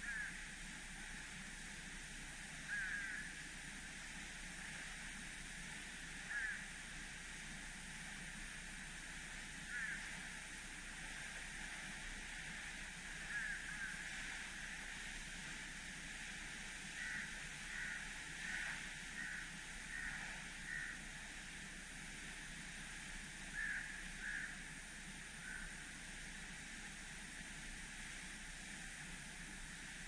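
A bird calling: short calls repeated every few seconds, then a quick run of about six, over a steady background hiss.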